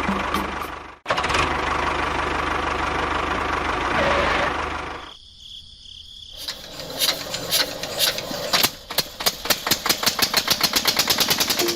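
A small engine on a miniature DIY tractor running steadily. It cuts off abruptly once and fades out a few seconds later. After a short lull it starts up again with a rapid, quickening knocking.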